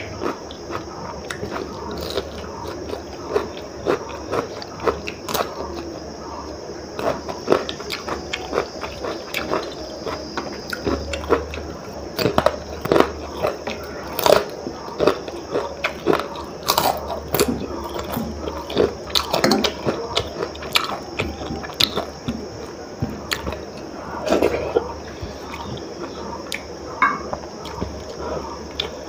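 Close-miked chewing and crunching of a person eating a mukbang meal of khichdi and crisp fried sides by hand, with frequent irregular crisp bites.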